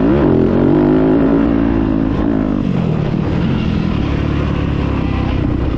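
Two-stroke dirt bike engine revving up sharply at the start, holding, then easing off after a couple of seconds; the sound cuts off abruptly near the end.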